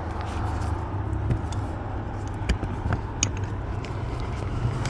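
A steady low rumble with a few light, sharp clicks and taps of hand tools and a socket being handled.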